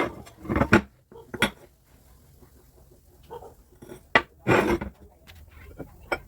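Metal objects clinking and knocking now and then, with a few short scraping bursts, the loudest near the start and about four and a half seconds in.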